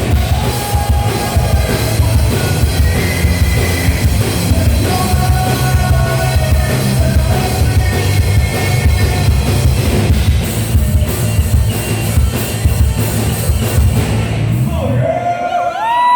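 Live rock band playing, with a drum kit driving a heavy rock sound. The full band stops about fifteen seconds in, leaving a few sliding tones that rise and fall.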